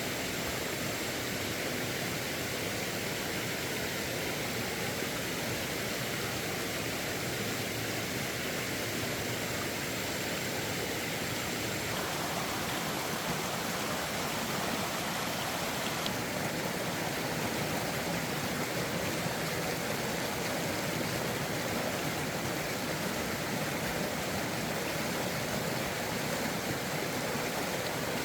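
A steady, even rushing noise with no distinct events; its character shifts slightly about twelve seconds in and again about sixteen seconds in.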